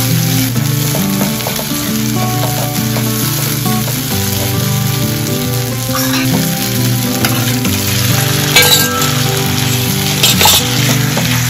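Chilli paste sizzling as it is stir-fried in a hot non-stick wok with a silicone spatula, over background music. Near the end, two louder bursts of sizzling as chicken pieces go into the hot paste.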